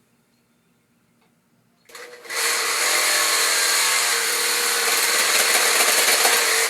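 Electric power tool starting up about two seconds in and running loud and steady for over four seconds, then cutting off suddenly.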